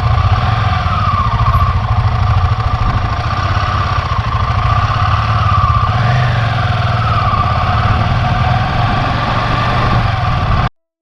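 Motorcycle engine running steadily with a dense low pulsing beat, cutting off abruptly near the end.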